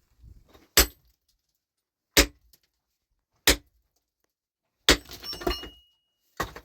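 Hammer striking rock in four sharp, evenly spaced blows about a second and a half apart, followed by clattering and one more blow near the end.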